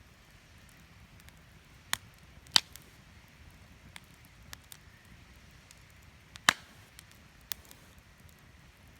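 Wood fire crackling: irregular sharp pops and snaps, two of them loud, over a faint steady hiss.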